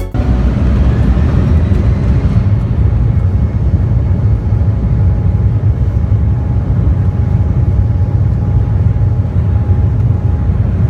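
Steady, loud low engine rumble with a faint steady whine above it, as from a moving vehicle.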